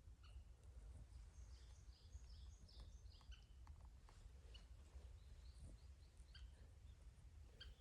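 Near silence outdoors: faint bird chirps, most of them between about one and a half and three and a half seconds in, with scattered small clicks over a low rumble.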